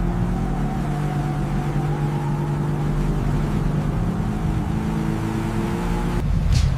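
Car engine running steadily, as when driving at speed, its tone holding nearly level. It breaks off abruptly about six seconds in, and a brief whoosh follows near the end.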